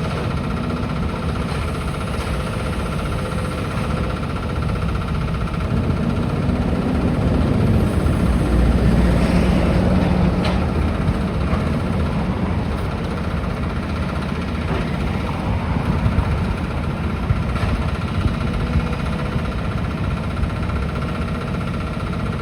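Diesel engine of heavy demolition machinery running steadily, growing louder for a couple of seconds about eight seconds in before settling back.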